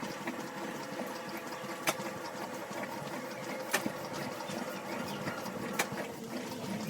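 Washing machine running: a steady motor hum with a sharp click about every two seconds.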